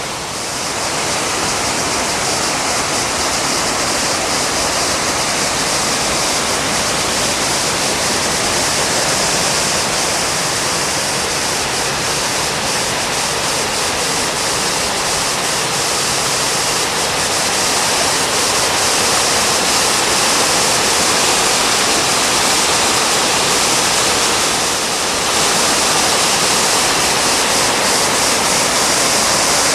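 Shepherd's Dell waterfall: a steady rush of falling water, with a brief dip in level about 25 seconds in.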